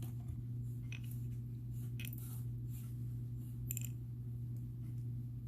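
A steady low hum runs throughout, with a few faint, sharp clicks of glass and gemstone beads knocking together as the beaded bracelet strand is handled.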